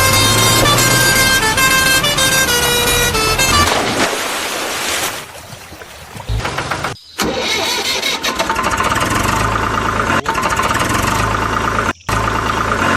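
Electronic vehicle sound effects: a short tune of stepped beeping notes, then a steady engine-like drone with a horn-like tone and a fast flutter, cutting out briefly twice.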